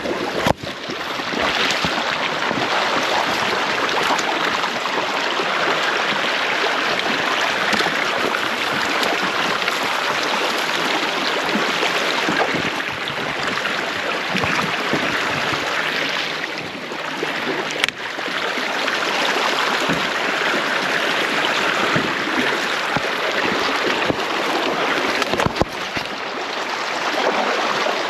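River water rushing steadily, with a few sharp knocks scattered through it.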